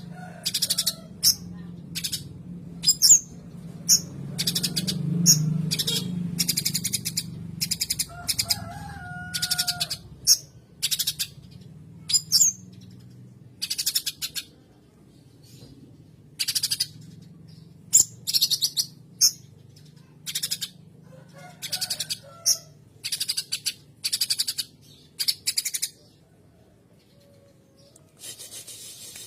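A cucak cungkok songbird singing a rolling song of short, rapid, high chattering bursts, one after another, filled with the scolding chatter of fighting tree sparrows, with a few lower whistled notes between. A faint low hum lies underneath.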